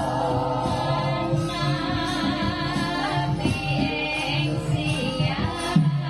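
Javanese gamelan playing with a female sinden singing over it.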